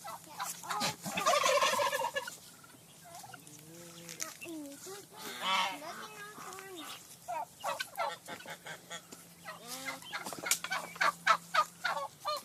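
Farm animals calling: a loud wavering cry about a second in, another near the middle, then a run of quick short calls in the second half.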